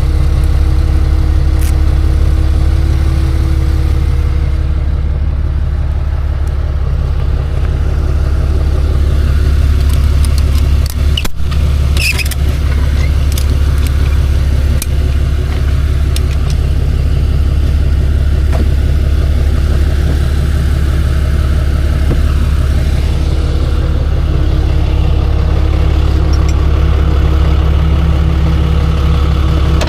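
Tow truck running on the road, heard from inside the cab as a steady, loud low drone. About eleven to twelve seconds in there is a brief dip and a few clicks.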